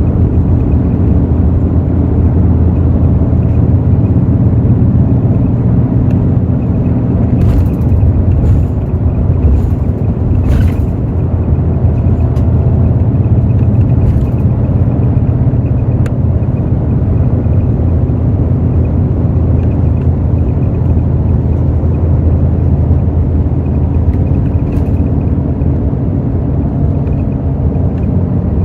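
Hino J08E-VD diesel engine of a Hino RN8JSVU intercity bus running at a steady pitch under way, heard from inside the bus with road rumble. A few short clicks come through, several of them together about a third of the way in.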